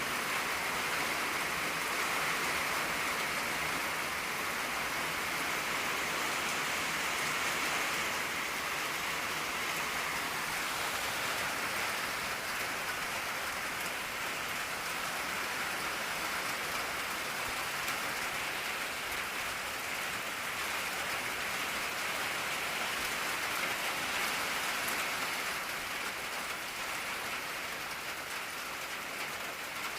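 Steady rain drumming on an old tin roof, an even patter with no let-up, easing slightly near the end.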